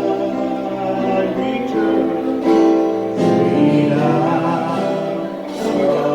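Gospel music: singing with a guitar accompaniment, long held notes.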